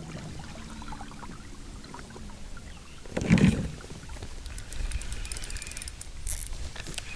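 Water and handling noise on a small fishing boat while trolling. A single loud low knock comes about three seconds in, followed by scattered light clicks.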